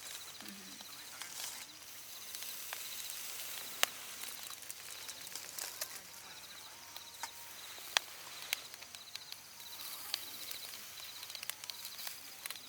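Outdoor ambience: a steady high hiss with an insect trilling in short repeated bursts, broken by a few sharp clicks, the loudest about four and eight seconds in.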